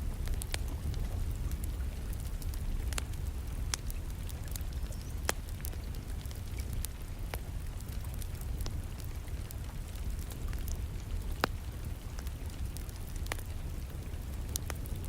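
Wood fire crackling in a fireplace: scattered sharp pops and snaps, two of them louder about five and eleven seconds in, over a steady low rush of rain.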